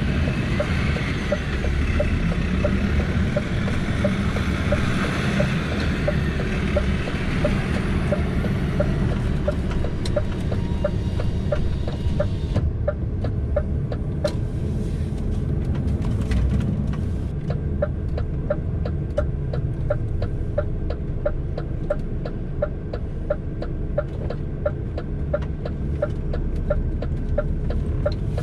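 Lorry cab noise: the diesel engine running steadily underneath, with the turn indicator ticking about twice a second. A rushing hiss over the first twelve seconds or so cuts off suddenly.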